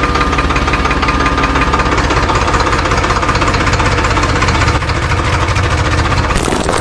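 Engine running steadily with a rapid, even knocking beat.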